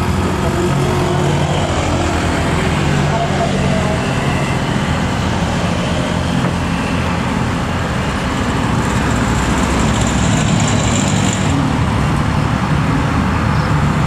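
Heavy diesel truck engine running hard under load up a steep grade, a steady low rumble. A thin high hiss joins in from about nine to eleven and a half seconds.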